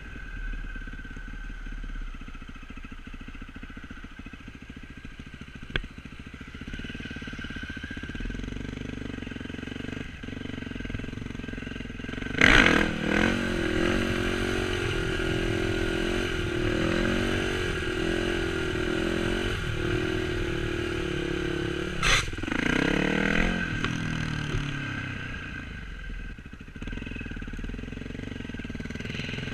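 Yamaha WR450F single-cylinder four-stroke motorcycle engine, running at low revs at first, then revved sharply about twelve seconds in to bring the front wheel up. It holds a higher, wavering note through the slow wheelie, gets a second sharp rev about ten seconds later, and drops back to low revs near the end.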